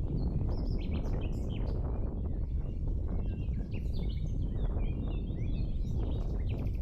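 Several small birds chirping in quick, short calls, over a steady low rumble of outdoor noise.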